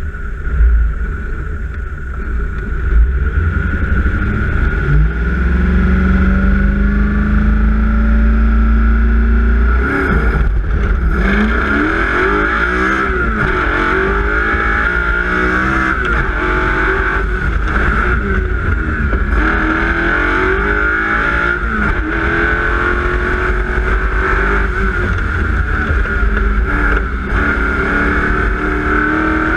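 Car engine running hard on a fast road run, its pitch climbing steadily for a few seconds, then rising and falling over and over, above a heavy low rumble of tyres and wind.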